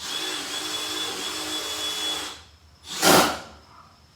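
A 12-volt cordless impact driver runs for a little over two seconds, driving a fastener. About three seconds in comes a short, loud burst.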